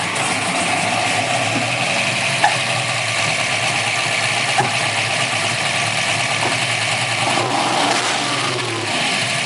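Custom-built 565 big-block Chevrolet V8 with Hilborn injection running steadily, with an occasional sharp crack. It is misfiring and running very rich; the owner has not found the cause after trying a different ignition box, a different coil and separate shielded ignition wiring.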